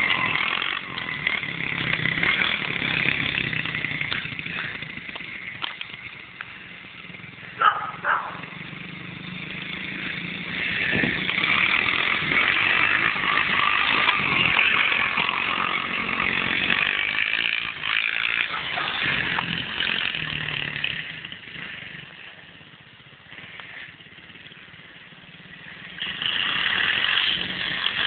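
A 110cc dirt bike's engine running as it is ridden about, growing louder and fainter as the bike comes near and moves away and back again. There is one short sharp sound about eight seconds in.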